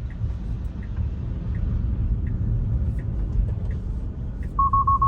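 Steady road and tyre rumble inside a Tesla's cabin at freeway speed, with a faint tick about every three quarters of a second, typical of the turn signal. Near the end, a quick run of about five short, high beeps: the car's warning chime.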